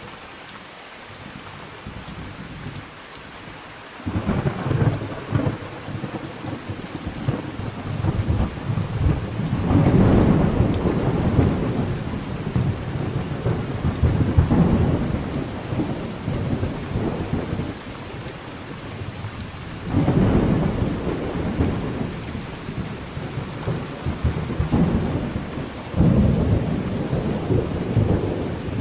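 Thunderstorm: steady rain with rolls of thunder. A sudden thunderclap about four seconds in rumbles on, others build around ten seconds and fourteen seconds, and fresh loud claps break about twenty and twenty-six seconds in.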